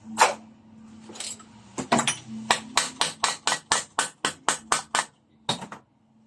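Hammer tapping on metal: a few scattered knocks, then a fast even run of about a dozen blows at roughly four a second, and one last knock.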